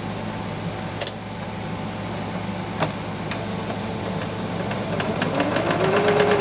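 Singer sewing machine starting up about five seconds in, its motor whine rising as it speeds up and the needle mechanism clattering in a rapid, even rhythm. It is running smoothly now that a clump of gathered thread that had been jamming it has been pulled out. Two sharp clicks come earlier.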